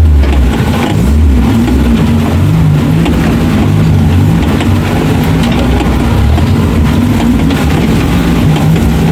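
Suzuki off-road 4x4's engine running steadily under load, its pitch shifting up and down slightly with the throttle.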